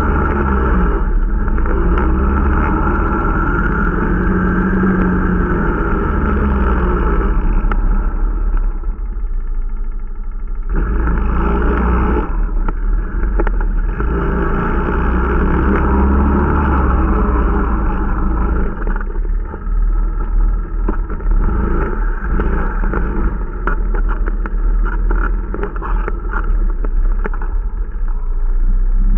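Irbis Dingo T125 snowmobile engine running under way, eased off about eight seconds in and opened up again about three seconds later. In the last third the sound turns choppier and uneven.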